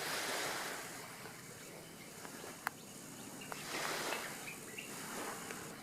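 Steady outdoor background noise, with one sharp click about two and a half seconds in and a few short high chirps a little after.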